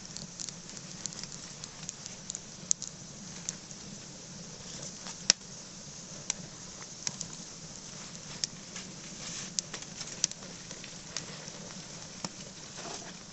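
Dead branches and fallen leaves burning, crackling with irregular sharp pops over a steady hiss; a few pops, one about five seconds in, are much louder.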